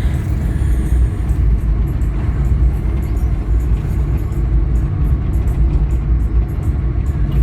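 Steady low rumble of a moving vehicle: engine and road noise, with wind buffeting the microphone.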